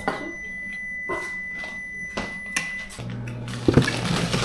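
A single long, steady, high-pitched electronic beep from a kitchen appliance, lasting about three seconds, with a few dishes clinking and knocking around it.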